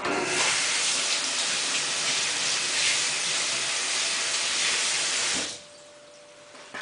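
Samsung WF8804RPA washing machine taking in water, a steady rush of water through the inlet and detergent drawer, which cuts off suddenly about five and a half seconds in as the fill stops.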